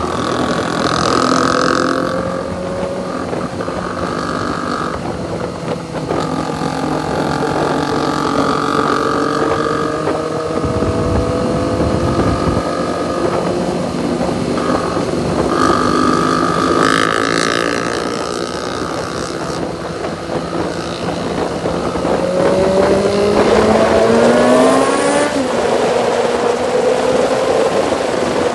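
Motorcycle engine running while riding. Near the end the revs climb for a few seconds, then drop suddenly, as at a gear change.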